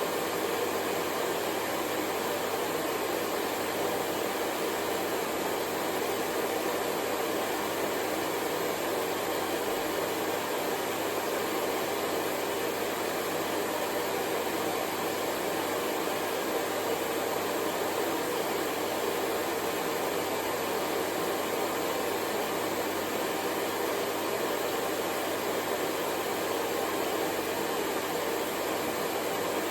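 Hair dryer blowing, a steady, unchanging whoosh of fan and airflow noise with a faint hum, used as white noise for sleep.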